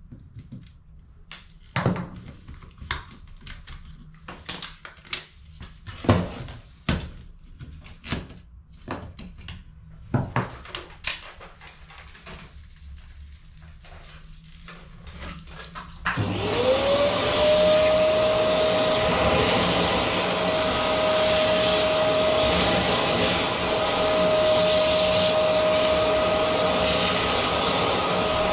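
Scattered sharp clicks and knocks of plastic toner cartridge parts being handled. About halfway through, a vacuum cleaner switches on, its motor whine rising as it spins up, and then runs steadily.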